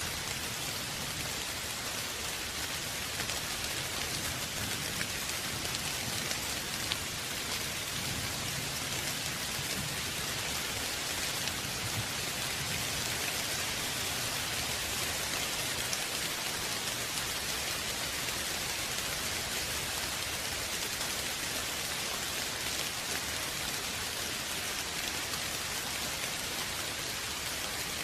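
Steady rain falling on a surface, an even hiss of many drops with a few sharper individual drop ticks.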